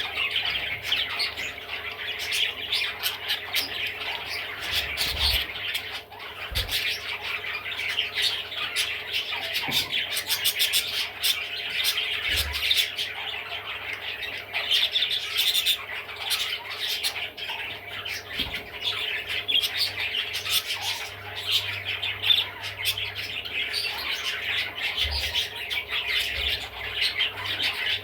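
Budgerigar chattering continuously: a dense run of quick squawks, chirps and clicks with no pause.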